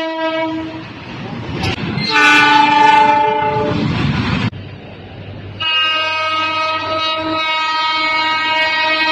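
Train horn of a locomotive sounding in repeated blasts: the end of one blast, a blast of about two and a half seconds, then a long held blast starting just past halfway, with train running noise in the gaps.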